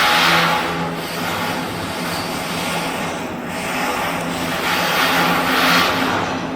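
Machinery running with a steady low hum under a loud hiss that dips about a second in and swells again near the end.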